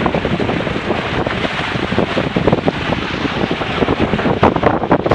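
Strong wind buffeting the microphone over rushing, splashing water as a Grabner Happy Cat Hurricane inflatable catamaran sails fast in a fresh 17-22 knot breeze. Short splashes and slaps of water come more often near the end.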